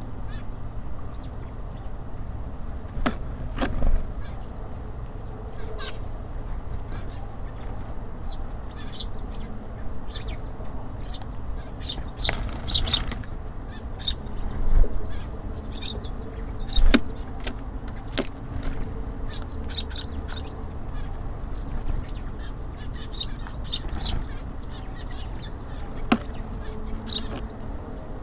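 Small songbirds at a feeder giving many short, high chirps and calls, with a few sharp knocks now and then, over a steady low rumble.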